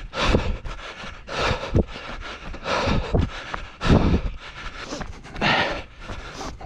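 A runner's hard breathing, puffing out a breath about once a second, with the thud of footfalls on a dirt trail.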